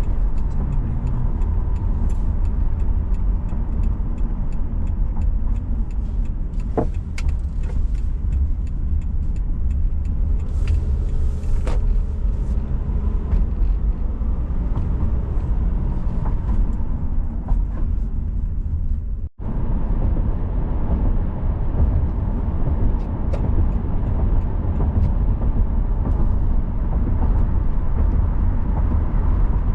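Car driving along city streets: a steady low rumble of engine and tyre noise, with a few faint ticks. The sound cuts out for an instant about two-thirds of the way through.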